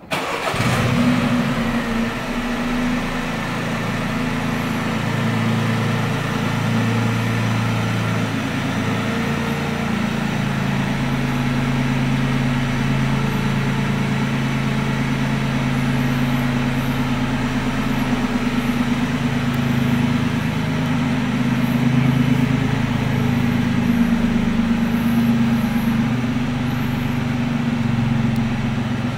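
MINI Cooper's three-cylinder engine starting: it catches at once with a brief flare in revs about a second in, then settles into a steady idle.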